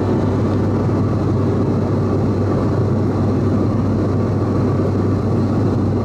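Cabin noise of an ATR 42-600 turboprop airliner in cruise: a steady rushing drone with a constant low propeller hum.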